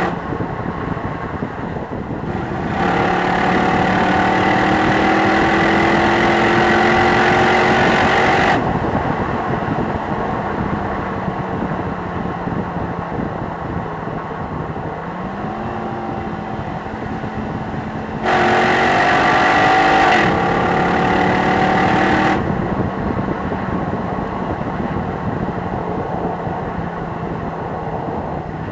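Jeep Grand Cherokee SRT8's 6.1-litre Hemi V8 running on the move at a steady drone, with two spells of heavier throttle, one starting about three seconds in and one about two-thirds through, where it gets louder and its pitch climbs slowly before dropping back sharply.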